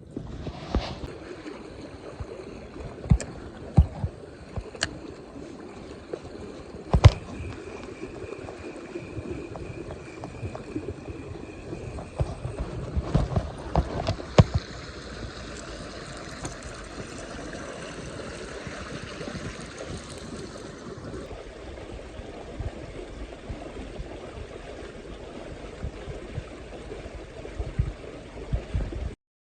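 Shallow mountain stream running over rocks, with several sharp knocks and clatters in the first half and a steady high-pitched tone for a stretch in the middle. The sound cuts off abruptly just before the end.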